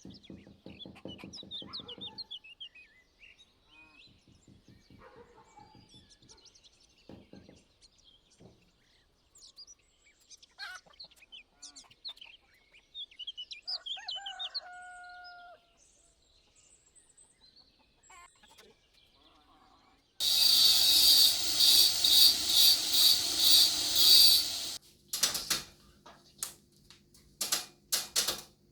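Chickens clucking and small birds chirping, with a held call about fifteen seconds in; then a loud rough noise with a fast flutter for about four seconds, followed by several sharp clicks.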